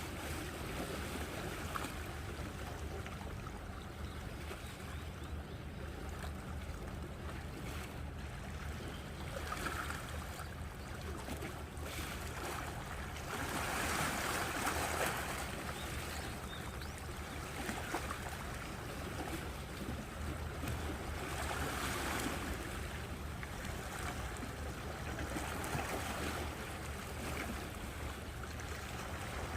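Sea waves washing onto the shore, with wind rumbling on the microphone. The wash swells louder about halfway through and again a little later.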